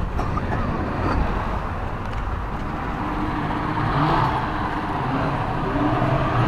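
Tour boat's engine running steadily, a continuous low hum, with faint voices in the background.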